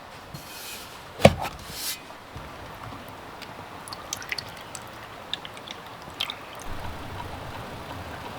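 Camp-cooking handling sounds: a sharp knock about a second in with a brief hiss around it, then scattered light clicks and soft liquid sounds.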